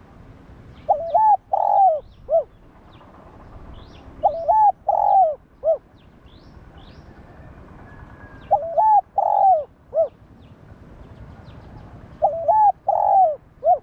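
Spotted dove cooing its repeated song: four phrases about four seconds apart, each two quick notes, a longer one and a short closing note. Faint chirps of small birds behind.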